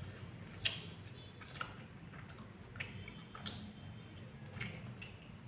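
Faint chewing with soft wet mouth smacks and a scatter of short clicks, about one every half second to a second.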